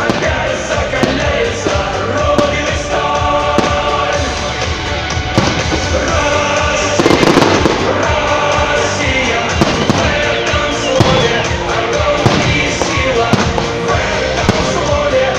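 Fireworks bursting in many sharp bangs and crackles, with a denser crackling stretch about halfway through, over loud music with singing.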